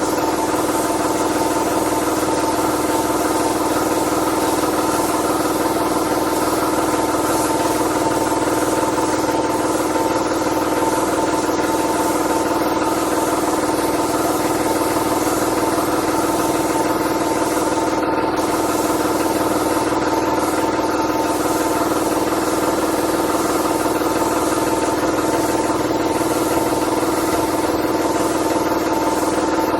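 A small electric motor running at a steady speed with a constant hum-whine, unchanging throughout.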